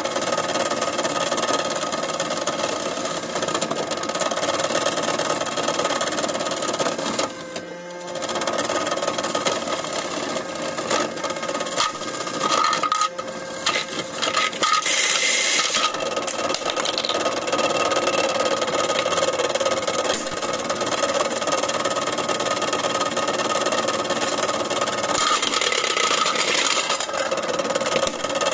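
AEG washing machine running hard, with a loud, continuous fast mechanical rattle and a steady motor tone; the noise dips briefly about a quarter of the way in.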